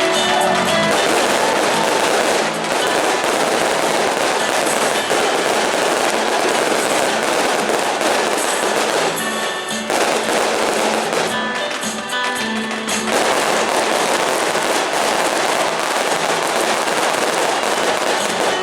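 Fireworks crackling and popping in a dense, continuous barrage, with music playing underneath.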